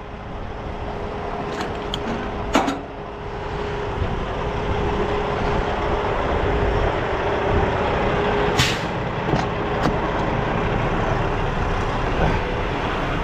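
Semi-truck diesel engine running steadily, with two short air-brake hisses: one a couple of seconds in and a stronger one about two-thirds of the way through.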